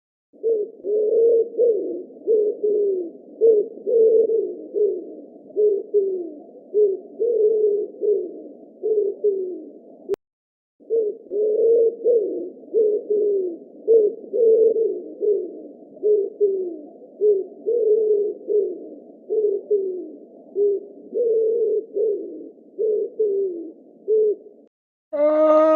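A bird's low calls repeated over and over, each a short falling note, about one to two a second, with a brief pause about ten seconds in.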